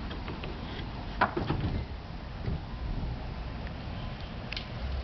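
A sharp knock about a second in, followed by a brief clatter, over a steady low outdoor rumble.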